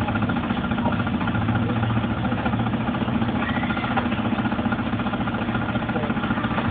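Car engine running with a steady low hum, heard through a dashcam microphone that makes it muffled and dull.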